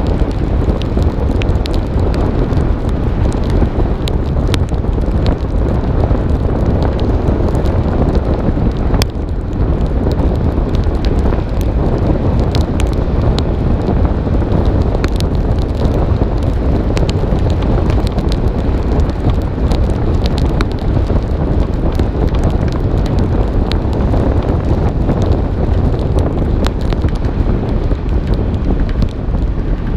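Wind buffeting the microphone of a hood-mounted camera on a car driving in the rain: a loud, steady rushing noise, with scattered sharp ticks throughout.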